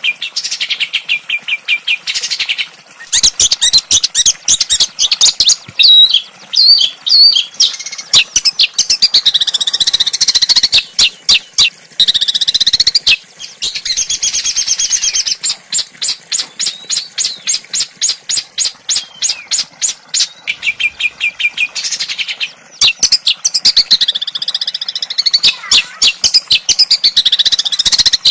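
Small songbird singing fast strings of sharp repeated notes and trills, phrase after phrase with short breaks, as used in a tutor-song recording for cage birds.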